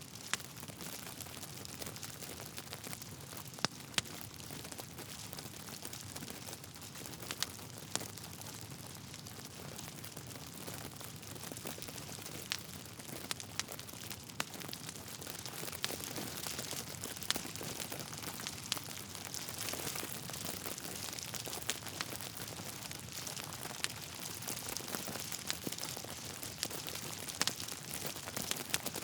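Wood fire crackling: a steady hiss of burning logs with irregular sharp pops scattered through, a dozen or so.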